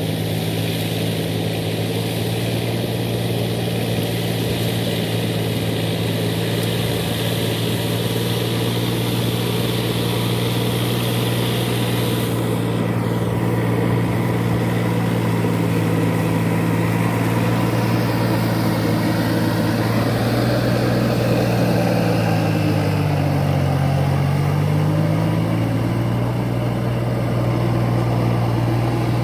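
Four-wheel paddy tractor's engine running steadily, its pitch dipping briefly and coming back up about 23 seconds in.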